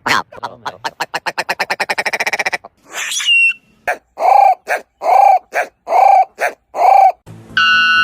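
Animal calls: a rapid train of pulses that speeds up, a short squeak, then five evenly spaced arched calls. Music with steady plucked tones comes in near the end.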